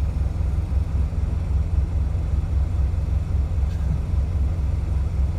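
Semi truck's diesel engine idling, a steady low rumble with a fast even pulse.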